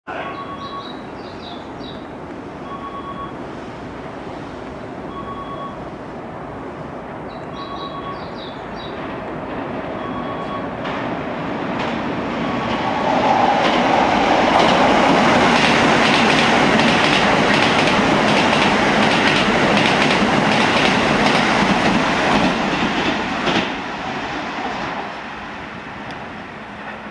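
Keisei 3000-series electric train passing through a station at speed: the rumble builds as it approaches, then rapid clacks of the wheels over the rail joints while the cars go by, fading in the last few seconds.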